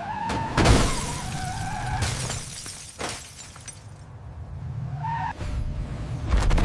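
A car crash: a tire screech with a loud smash and shattering glass about a second in, a smaller knock near three seconds, and another brief screech around five seconds.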